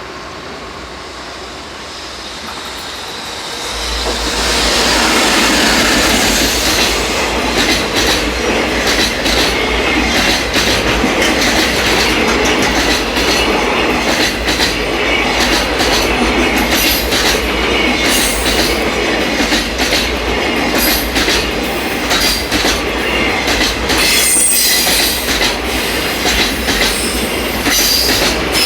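Freight train passing close by. It comes up over the first few seconds, then a long string of wagons clatters over the rail joints, with high wheel squeal near the end.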